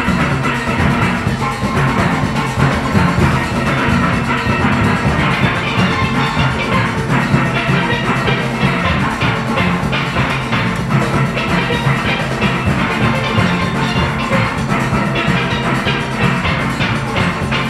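A full steel orchestra playing a fast, driving Panorama arrangement: massed steel pans carrying the melody and chords over bass pans and a steady drum-kit and percussion rhythm section.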